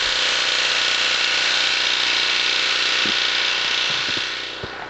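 Snowplow truck's engine idling steadily, with a hissing whine over a low hum, fading out near the end.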